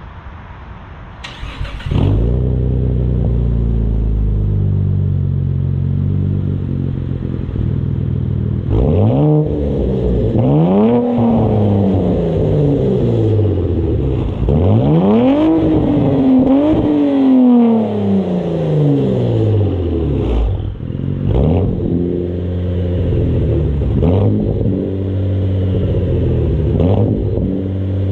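Cadillac CTS V-Sport's twin-turbo V6 through a muffler-delete exhaust with a factory X-pipe. It comes in loudly about two seconds in and idles, then is revved up and let fall back, once near the middle and twice more in quick succession. Shorter blips of the throttle follow near the end.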